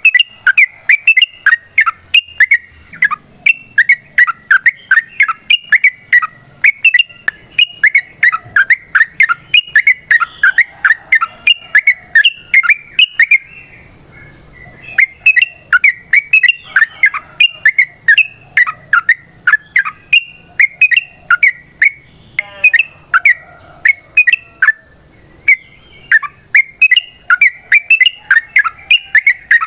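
Yellow-vented bulbul (trucukan) singing long, fast runs of loud chirping, bubbly phrases, breaking off briefly about halfway through, the rapid 'ropel' song used to provoke other males. A faint steady high-pitched hum sits beneath from about a quarter of the way in.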